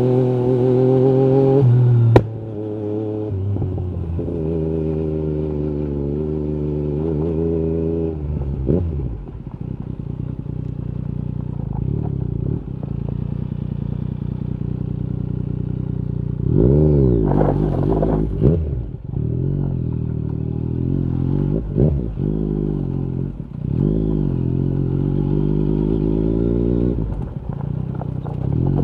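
Yamaha MT-09 SP's inline three-cylinder engine through an Akrapovic carbon Racing-Line exhaust with the dB killer removed, riding with the revs rising and falling, long steady low-rev stretches and repeated quick rev swings. A single sharp crack about two seconds in.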